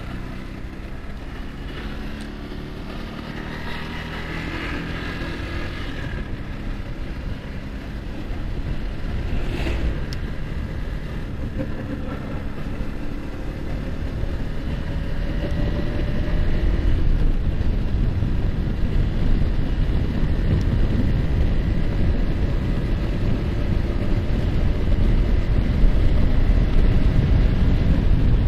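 Yamaha R15 sport motorcycle engine running on the road, its pitch rising slowly as it accelerates, with wind noise on the microphone growing steadily louder as speed builds.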